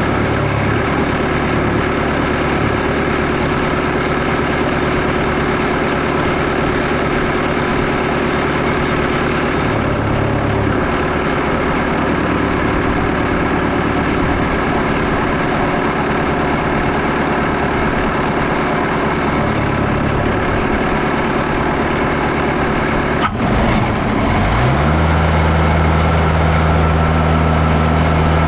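Portable bandsaw sawmill running, its engine driving the band blade through a white cedar log at a steady speed. Near the end a sharp click, and the engine note dips and then settles at a different steady pitch.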